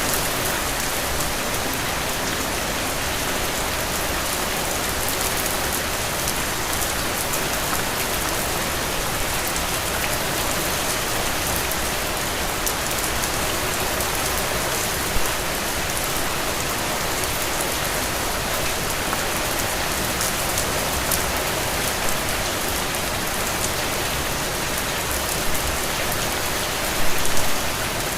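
Heavy rain falling steadily, a dense even patter, with a few louder drops striking now and then, the loudest cluster near the end.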